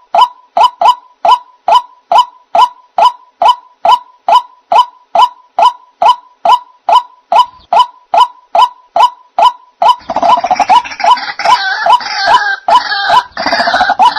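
White-breasted waterhen (ruak-ruak) calls played as a bird-trap lure. A steady series of short, clipped notes repeats a little over twice a second. About ten seconds in, a denser chorus of overlapping harsh croaking calls takes over.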